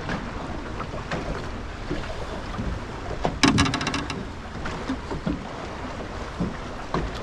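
Water and wind noise around a small fishing boat, with scattered light knocks as a fish is handled aboard. About three and a half seconds in, a brief run of rapid clicks is the loudest sound.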